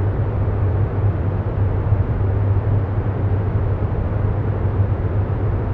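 Steady low rumbling background noise with a hum around 100 Hz, unchanging throughout: the ambient bed laid under the affirmations.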